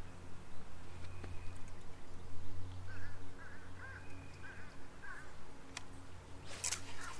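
A bird calling in a run of short, repeated arched calls, over a steady low hum. Near the end there is a brief loud rush of noise.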